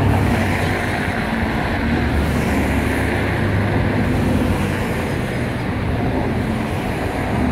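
Steady, even low rumble of outdoor background noise, with no distinct events.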